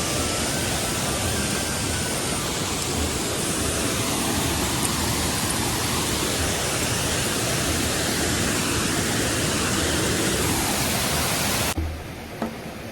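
Waterfall rushing: a steady, dense roar of falling water that cuts off abruptly near the end.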